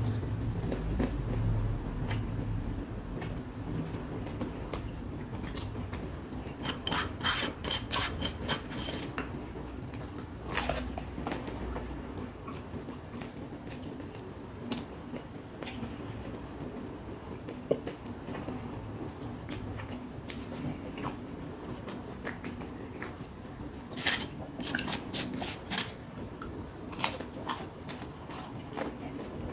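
Close-up chewing of crispy fried fritters, with bursts of crunchy crackling bites several times.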